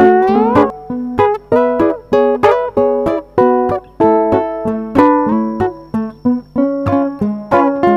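Background music: an upbeat plucked-string tune with notes picked in a quick, even rhythm.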